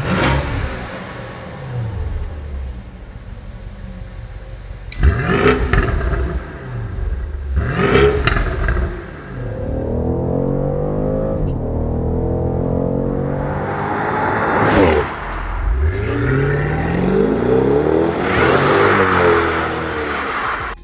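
BMW M550i's twin-turbo V8 running through a Dinan X-pipe and axle-back exhaust, revved in quick blips and then in longer runs up and back down. This is an aftermarket exhaust giving a louder, more aggressive tone than the stock system.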